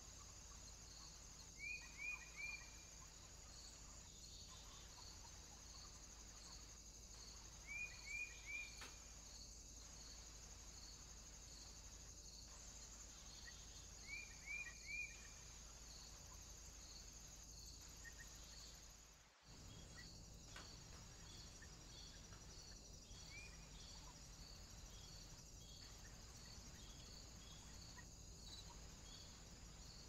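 Faint woodland ambience with a high insect-like chirp repeating about once a second. A small bird gives a quick three-note call three times, and later a single note.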